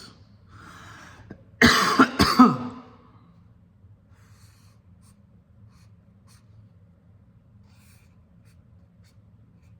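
A man coughs three times in quick succession about a second and a half in, after a short breath in. It is the cough of someone with a cold, which he puts down to a cold or allergies.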